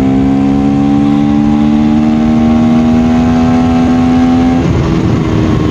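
KTM Duke 390 single-cylinder engine pulling under acceleration, its pitch slowly rising, then dropping sharply near the end as it shifts up a gear.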